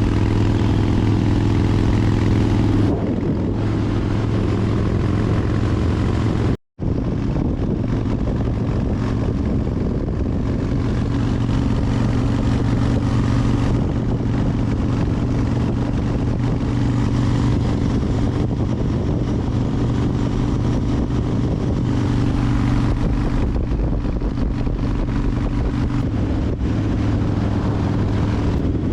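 Harley-Davidson Fat Bob's V-twin engine running steadily at cruising speed, with steady rushing wind noise over it. The sound cuts out for a moment about seven seconds in.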